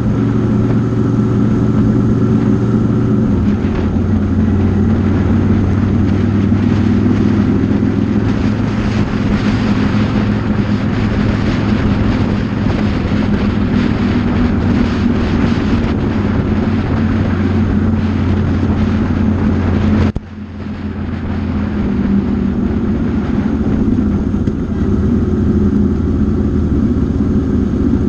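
Motorcycle engine running under way, with wind rush on the microphone. The engine note steps down a little about three seconds in; near two-thirds of the way through the sound dips sharply as the throttle closes, then builds back up.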